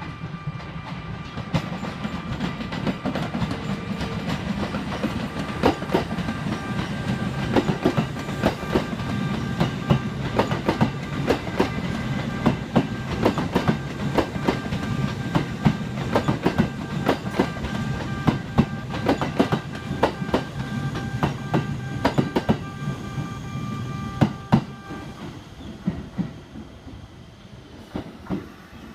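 Kintetsu electric train pulling into the station, wheels clacking over rail joints and points under a low rumble, with a steady high whine. The whine stops about 25 seconds in and the running sound fades as the train slows to a stop.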